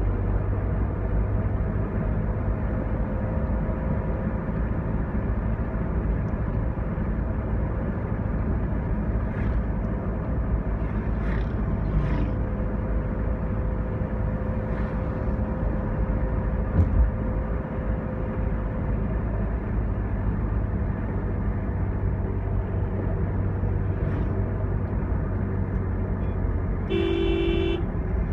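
Steady engine and road noise of a moving vehicle, with a single horn honk about a second long near the end.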